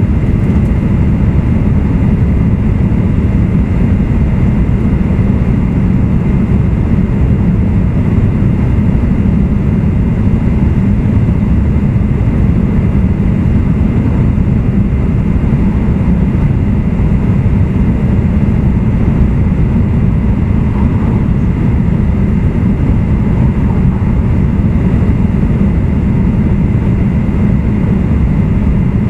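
E2 series Shinkansen car E226-1205 running at speed, heard from inside the car: a loud, steady low rumble from wheels on rail, running gear and air, with a faint high hum over it.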